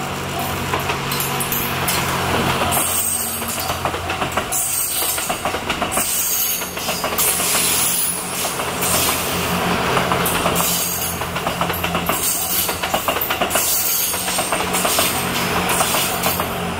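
The JR West 87-series Twilight Express Mizukaze sleeper train passing close by at speed, its wheels clattering over the rail joints again and again, every second or two, with a steady rumble underneath.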